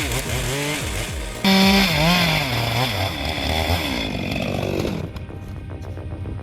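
Chainsaw running under cutting load, its pitch rising and falling again and again as it is revved. It gets suddenly louder about a second and a half in. About five seconds in the saw stops and gives way to a quieter stretch with faint clicks.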